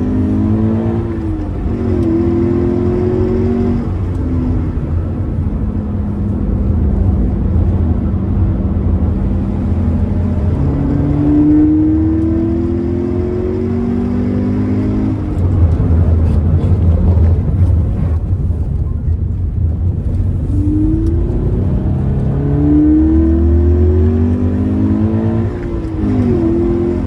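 Toyota 86 (ZN6) flat-four engine pulled hard three times, its pitch climbing each time with steadier running between. While pulling in third gear the transmission gives a rattling (ガラガラ) noise, which the owner suspects is gear resonance, a worn transmission mount, too-thin gear oil or a failing gearbox.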